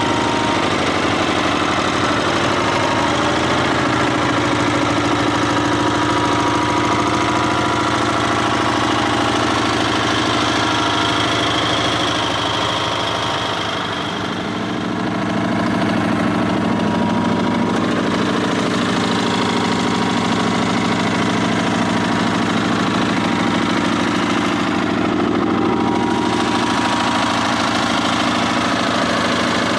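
Sears SS/16 garden tractor's twin-cylinder engine running steadily. About halfway through, the sound briefly dips and the engine note then shifts.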